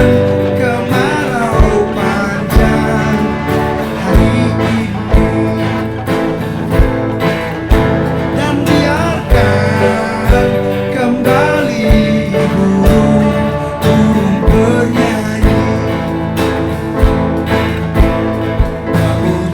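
A live band playing a song with acoustic guitar and a steady beat about once a second, with a voice singing a melody at times.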